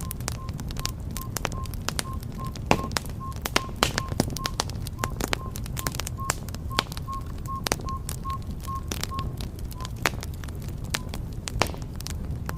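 Wood fire burning: sharp crackles and pops over a steady low rumble of flames. A faint short high tone repeats about three times a second and stops about ten seconds in.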